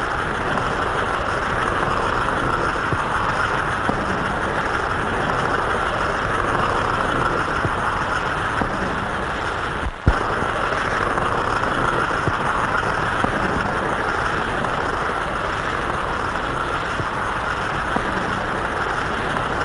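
American Flyer electric toy train running on its track: a steady whirring rumble of motor and wheels with a faint regular beat. It is briefly interrupted by a short dropout and click about ten seconds in.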